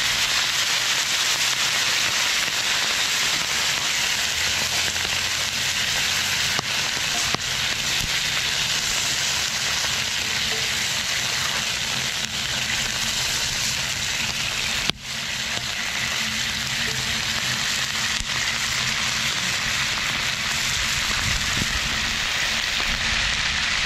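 Sliced onions and bell peppers sizzling in a cast-iron skillet over a wood fire, a steady frying hiss with red wine vinegar just added to the pan. The hiss breaks off for an instant about fifteen seconds in.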